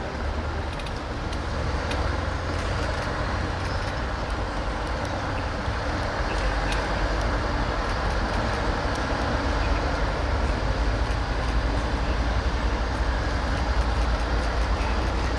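Large police vehicles driving slowly past in a procession: a steady low engine and tyre rumble that grows a little stronger about six seconds in.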